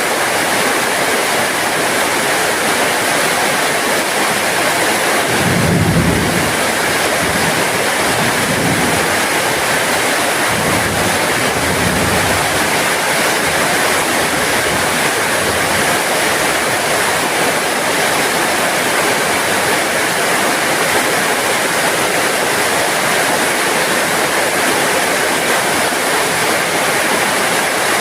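Steady heavy rain, a dense even hiss. A low rumble swells briefly about six seconds in, with fainter rumbles over the following few seconds.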